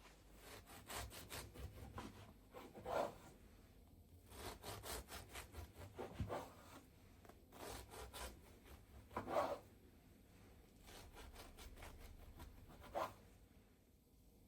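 Quick rasping, scraping strokes in short runs of a second or two, each followed by a louder single scrape, about four times over.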